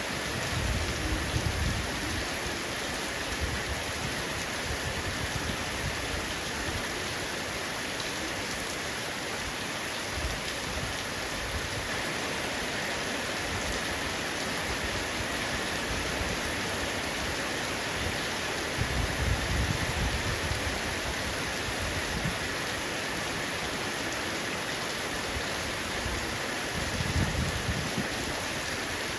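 Heavy rain falling steadily on a roof, an even hiss with no letup. Low rumbles swell briefly three times: about a second in, around two-thirds of the way through, and near the end.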